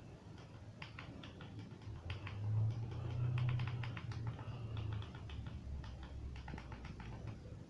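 Small hard toy pieces being handled: a run of light clicks and taps, with a low hum for a few seconds in the middle.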